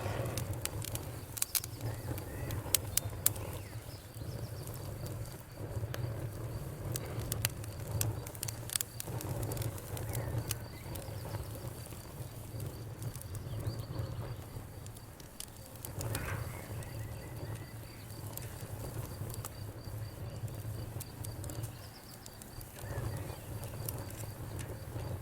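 Wood fire in a fireplace crackling, with sharp pops and snaps that come thick in the first few seconds and more scattered after, over a steady low rumble. A faint, steady high whistle runs underneath.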